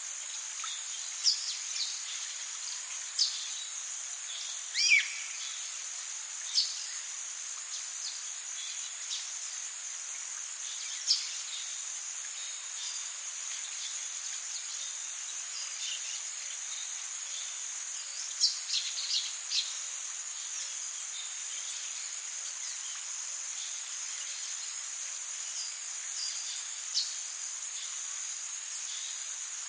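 Rainforest ambience: a steady high-pitched insect drone, with short, sharp bird calls every few seconds. The loudest call comes about five seconds in and slides down in pitch.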